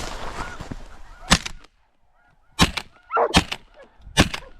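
Shotgun fired repeatedly at incoming snow geese: about four sharp shots roughly a second apart, starting a second or so in. Snow geese honk throughout.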